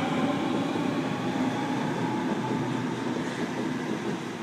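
Waratah A-set electric train departing, its running noise steady and slowly fading as it pulls away.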